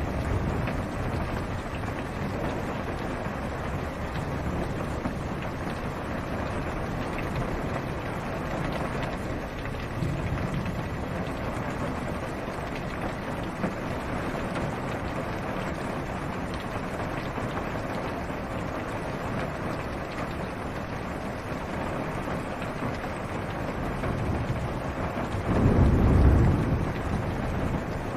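Steady rain falling on a car's roof and windows, heard from inside the car, with a low roll of thunder swelling near the end.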